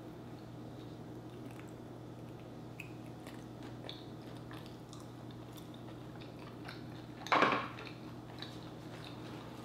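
Close-miked chewing and small mouth clicks of a person eating sauced chicken wings, with one brief, much louder noisy sound about seven seconds in.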